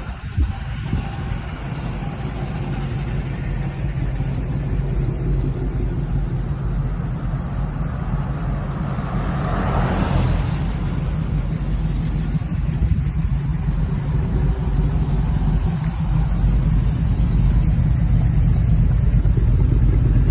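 A car engine running with a deep, steady low rumble that swells briefly about halfway through.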